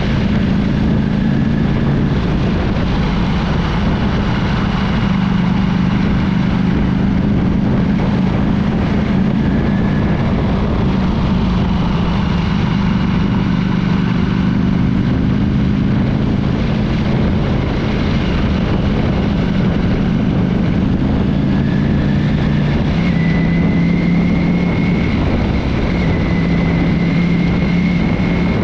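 Ducati V4 motorcycle engine running at a steady cruise, its pitch shifting a little now and then, under a loud constant rush of wind and road noise.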